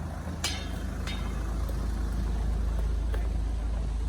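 A motor vehicle's engine rumbling as it passes close by, swelling to its loudest about three seconds in and then easing. Two sharp clicks come near the start.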